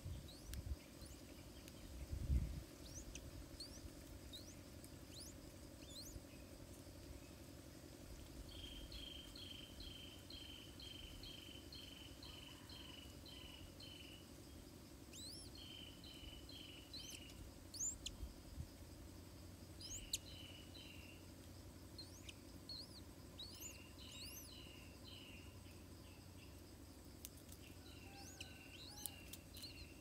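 Faint bird calls: short rising chirps scattered throughout, and runs of rapid repeated high notes, about two or three a second, from about a third of the way in. A low thump about two seconds in.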